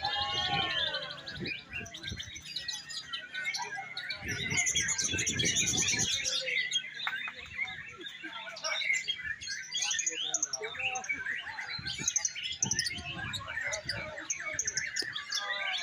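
Many caged songbirds singing at once at a bird-song contest, a dense chorus of overlapping chirps, trills and whistles. Low rumbles of background noise come in a couple of times underneath.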